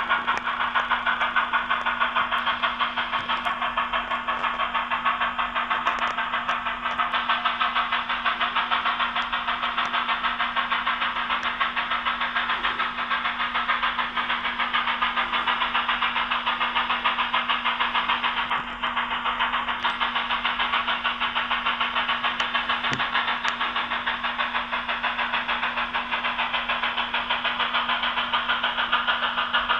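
Sn2-scale model Shay locomotive running, a fast, even rhythmic chatter over a steady low hum.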